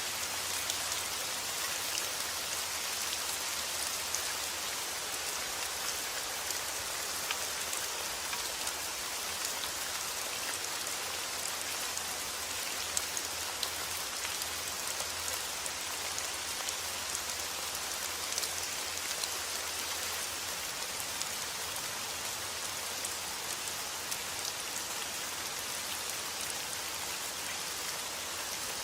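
Steady rain falling, an even hiss with many small drops ticking close by on a surface.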